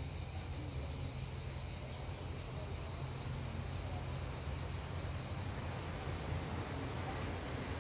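Outdoor park ambience: a steady high-pitched drone of insects over a low, steady rumble, with no distinct events.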